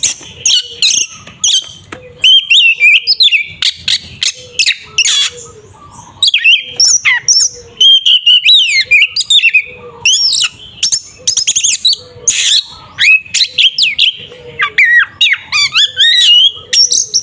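Oriental magpie-robin (kacer) singing loudly in a fast, unbroken stream of whistled slurs and rising and falling glides, mixed with harsh rasping notes. This is the excited 'ngeplong' fighting song used to provoke other magpie-robins.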